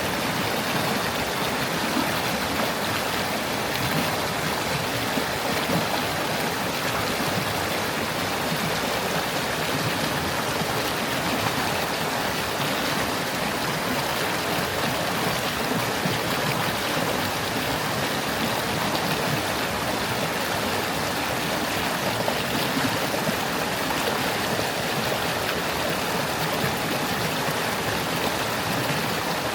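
Stream water flowing and babbling over stones, a steady, even rush.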